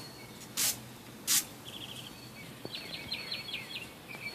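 Two quick swishes of broom bristles across pavement, about three-quarters of a second apart, followed by faint chirping trills in the background.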